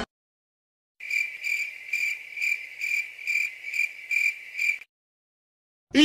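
Stock sound effect of crickets chirping: an even, pulsing chirp about two and a half times a second, starting about a second in and stopping shortly before the end.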